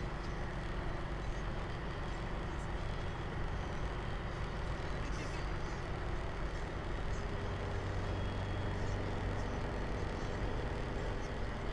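Classic Volkswagen Beetle's air-cooled flat-four engine running steadily at cruising speed, with road and wind noise, heard inside the cabin. A low drone grows stronger for a couple of seconds about eight seconds in.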